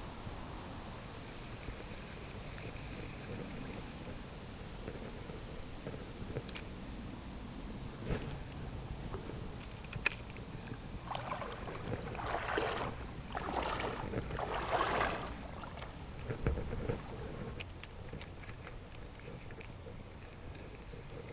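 River ambience: a steady wash of noise with a high hiss, a few sharp clicks or knocks, and a run of louder swishing or sloshing bursts in the middle.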